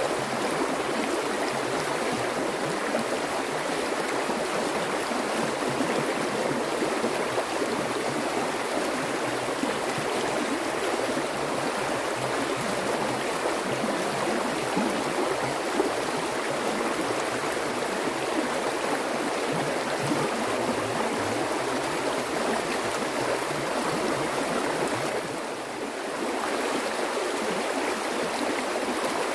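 Flowing water running steadily, a continuous rushing and gurgling, briefly a little softer about 25 seconds in.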